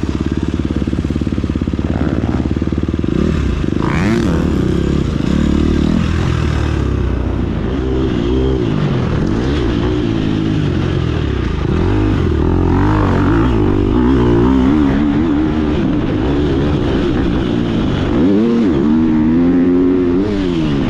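Single-cylinder four-stroke engine of a 2019 KTM 250 SX-F motocross bike being ridden hard, its pitch rising and falling again and again with throttle and gear changes.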